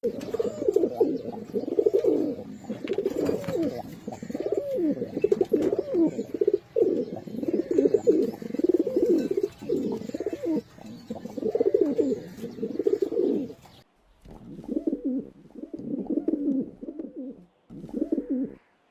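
Pigeon cooing: rolling, repeated coos run on for about 14 seconds and stop suddenly. After a brief gap come three shorter bouts of cooing.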